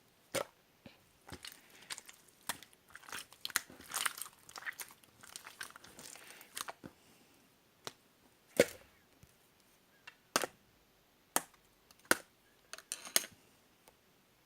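Clear slime being squished and pressed by hand, giving sharp sticky clicks and pops, with a denser run of crackling from about three to seven seconds in.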